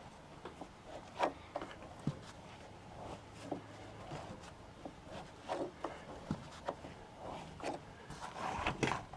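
Irregular light clicks, taps and rubbing from tools and metal parts being handled under a car, with a cluster of louder knocks near the end.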